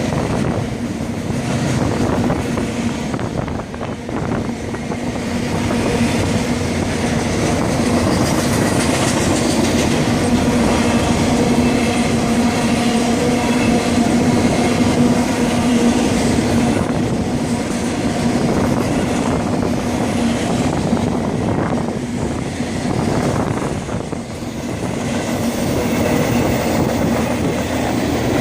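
Double-stack freight train's cars rolling past, a steady loud rumble of steel wheels on rail with clickety-clack over the rail joints and a steady droning tone underneath.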